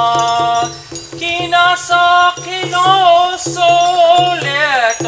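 A man singing a Native American spiritual song, holding long notes that bend and waver in pitch, with short breaks between phrases, over a steady low pulsing beat.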